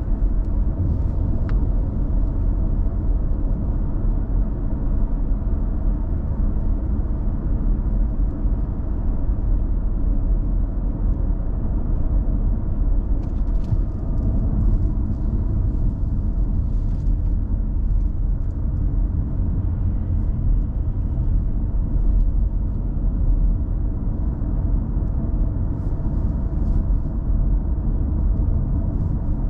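Steady low rumble of a car being driven, engine and tyre noise heard from inside, with a few faint ticks in the second half.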